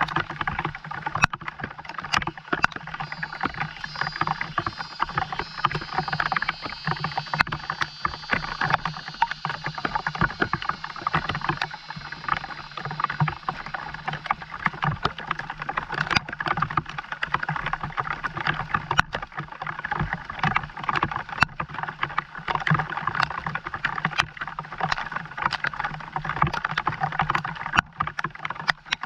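Steady rainfall with many sharp drop strikes pattering throughout, under a constant low hum.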